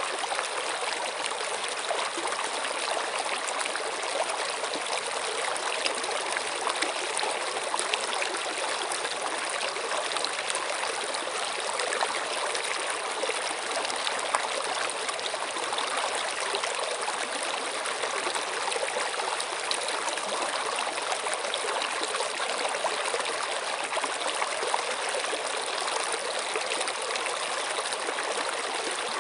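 Stream water running and trickling steadily, a constant splashing rush with fine bubbling crackle.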